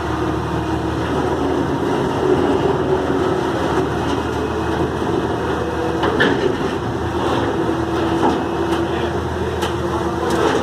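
Heavy vehicle engine running steadily under load, with a held mid-pitched whine and a few sharp knocks in the second half.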